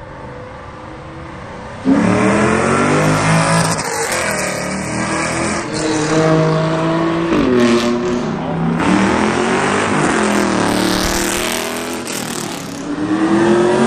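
A car engine starts revving hard about two seconds in, accelerating with its pitch rising and falling, then drops sharply and climbs again, as in a gear change.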